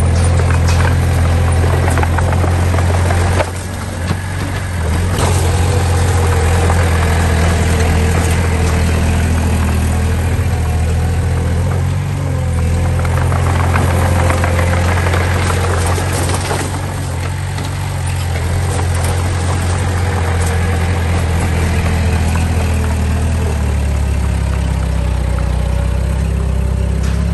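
Heavy diesel engine of earthmoving machinery running steadily, with scattered clanks and knocks over it. The level dips briefly about three and a half seconds in.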